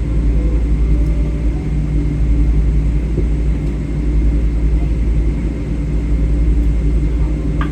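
Steady low cabin rumble inside a Boeing 777-300 on the ground after landing, with its Rolls-Royce engines at idle and a few steady hums over the rumble. A short click near the end.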